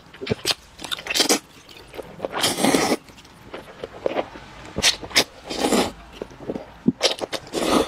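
Close-miked eating: irregular biting and chewing, with sharp clicks and several short noisy bursts.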